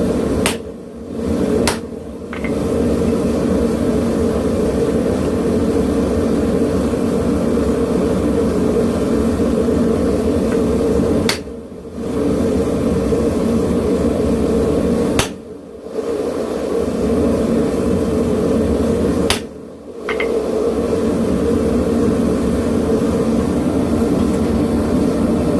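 Propane forge burner running with a steady loud roar and hum, broken by about five short dropouts, each starting with a click.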